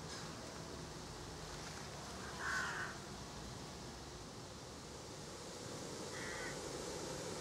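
Faint outdoor background with a bird's harsh call twice: a louder one about two and a half seconds in and a fainter one about six seconds in.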